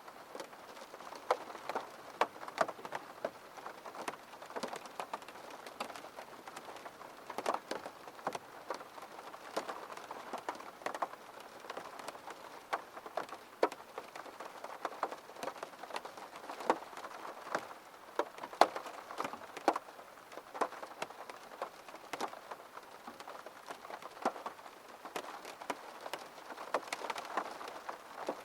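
Rain falling steadily, with many separate drops ticking sharply against a window pane over a soft hiss of rainfall.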